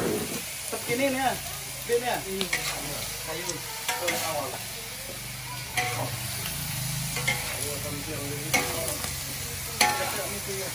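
Diced pork belly sizzling in a large wok while it is stirred, the metal ladle scraping and knocking against the wok with sharp clinks every second or two.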